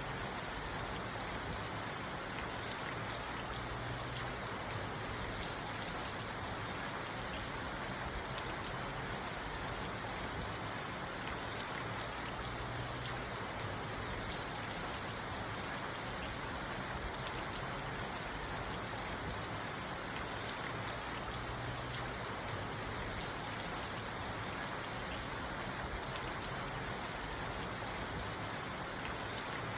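Steady rain falling on a parked car, heard from inside the car as an even hiss of drops on the roof and windows.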